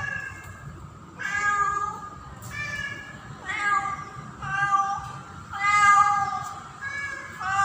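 Female domestic cat in heat calling for a tom: a string of drawn-out, pitched meows, about one a second, the mating call of a queen in oestrus.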